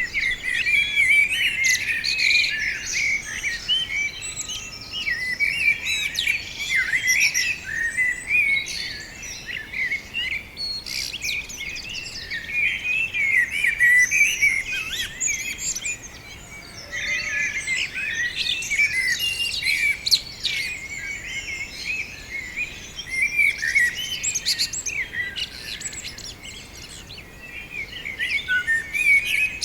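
Many small birds chirping and twittering together in a dense, continuous chorus of high calls that overlap one another, thinning out briefly about halfway through and again near the end.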